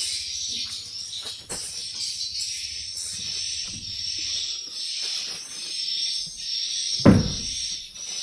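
Dense, continuous high-pitched twittering of swiftlets, pulsing over and over, as heard in a swiftlet house. A single loud thump sounds about seven seconds in.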